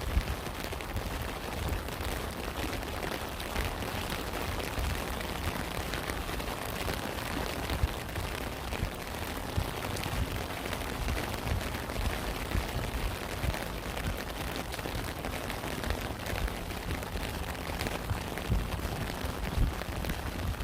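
Steady rain falling, a constant hiss dotted with many sharp drop impacts, with frequent low thuds underneath.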